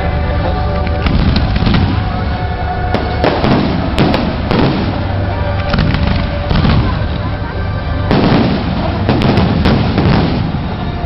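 Fireworks going off: about nine bangs and crackling bursts at uneven intervals, over steady background music.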